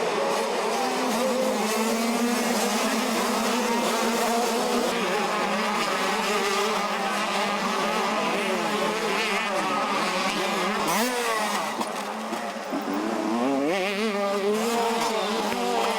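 Several motocross bikes racing, their engines revving up and down as they accelerate and shift, with pitch sweeps overlapping. The sound drops briefly about twelve seconds in, then picks up again.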